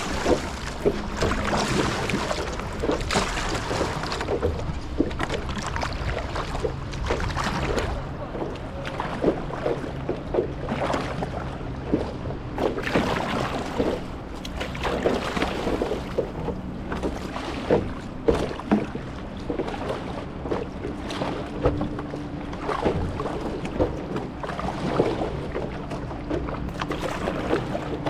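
Paddles dipping and splashing in the water as a small paddled boat moves along, in irregular strokes about one to two a second.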